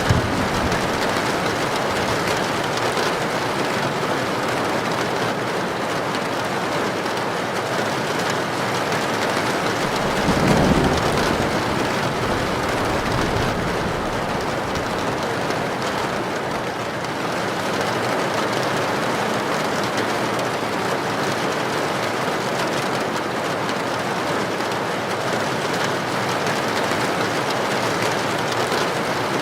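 Heavy rain drumming on a tin roof, a steady dense hiss. About ten seconds in there is a brief low rumble of thunder.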